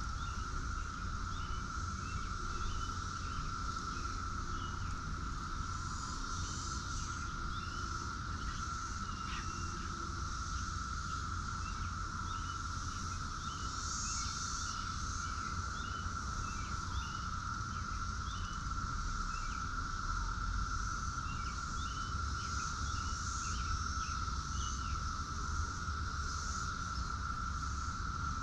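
Steady insect chorus holding one high note, with many short high chirps scattered through it and a low rumble underneath.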